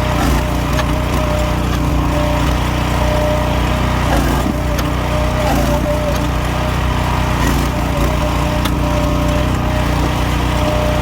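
Firewood processor running with a steady engine drone and whine, and scattered sharp cracks and snaps of wood as logs are cut and split.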